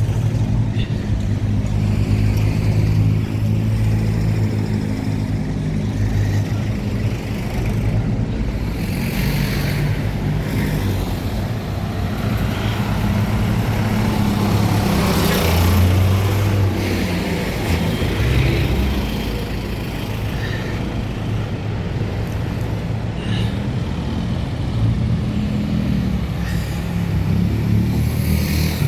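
Road traffic: motor vehicle engines running with a steady low hum, and one vehicle passing close, loudest about halfway through.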